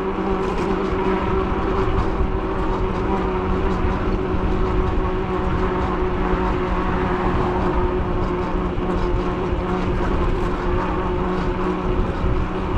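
Riding noise on a moving e-bike: wind rushing over the microphone and road rumble, with a steady low hum held throughout.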